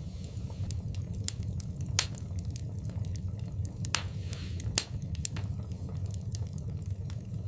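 Wood fire burning in a fireplace: a steady low rumble of flames with scattered crackles and sharp pops, the loudest pops about two seconds in and near five seconds, and a brief hiss around four seconds.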